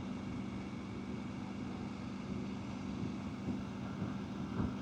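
An engine idling steadily, a low even hum with no change.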